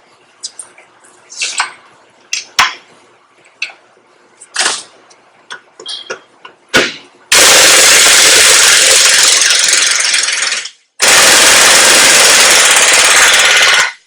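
Impact wrench hammering on a tractor wheel hub's fasteners in two long, loud bursts with a short break between them, breaking them loose. Before the bursts come a few light clicks and knocks of the tool being set on.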